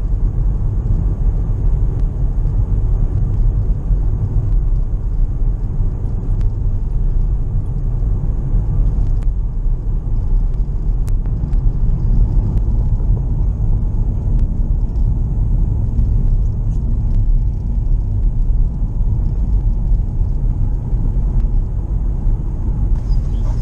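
Steady low road and engine rumble heard from inside a car's cabin while driving.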